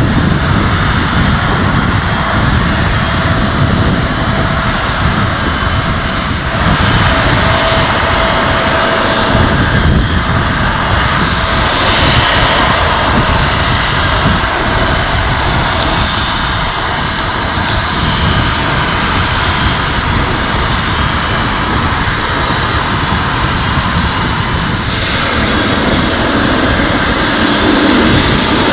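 Boeing 777-300ER's twin GE90-115B turbofans at takeoff power: a loud, steady jet noise with a deep rumble beneath it.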